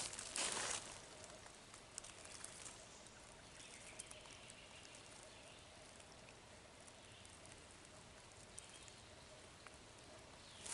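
Quiet woodland ambience: a faint even hiss with scattered small ticks, and a brief rustle about half a second in.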